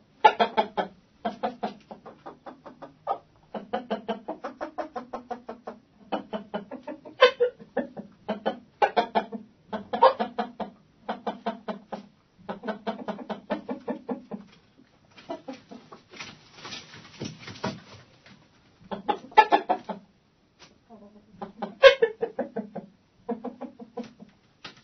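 Hens clucking in a chicken coop, short clucks repeated quickly in bouts with brief pauses between them. Past the middle there are about two seconds of scratchy rustling noise among the calls.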